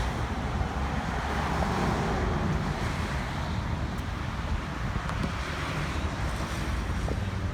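A car engine running steadily with a low rumble, and wind buffeting the microphone.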